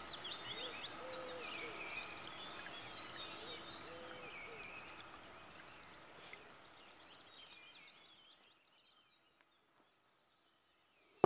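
Birds chirping and singing outdoors, a mix of many quick high calls and a lower repeated call. The birdsong fades away after about seven seconds into near silence.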